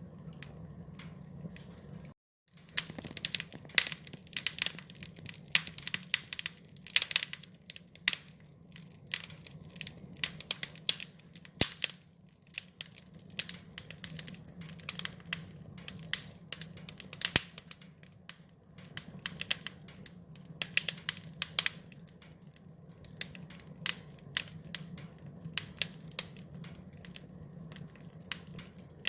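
Wood fire crackling: a steady run of irregular sharp pops and snaps over a low, even hum. The sound cuts out completely for a moment about two seconds in.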